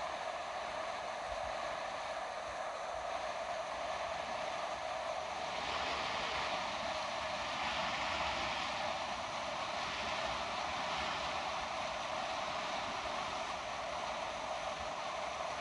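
River water rushing steadily over its bed, growing a little louder and brighter about six seconds in.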